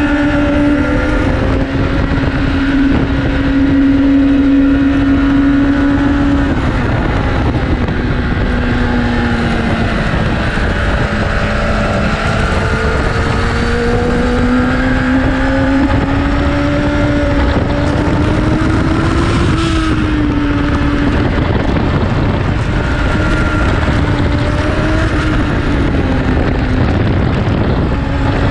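Litre-class inline-four sport-bike engine at speed on a race track, its pitch rising and falling as the rider accelerates and slows for corners. Heavy wind rush on the microphone runs underneath.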